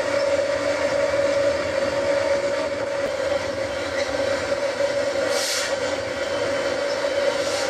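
A train running along the track, a steady rumbling noise carrying a constant mid-pitched tone, with a short hiss a little past five seconds in.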